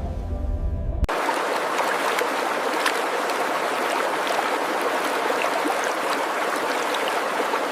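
A low droning musical tone for about the first second, then an abrupt cut to a steady rush of running water with small crackles and splashes in it.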